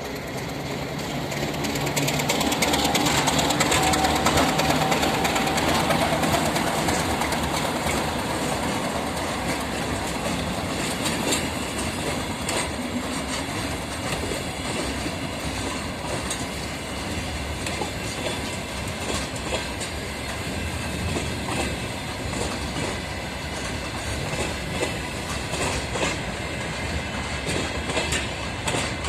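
ChME3 diesel shunting locomotive moving along the track. Its diesel engine runs loudest in the first several seconds, then falls back to a steadier level, while the wheels clack over rail joints now and then.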